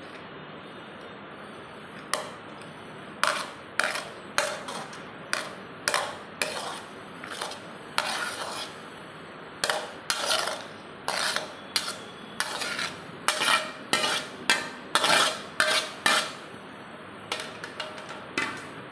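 Metal spoon stirring and scraping in a cooking vessel: a run of short scrapes and knocks, roughly one to two a second, starting about two seconds in.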